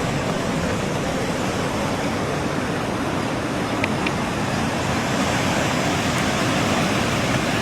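Steady rushing noise with no distinct events, like surf or wind.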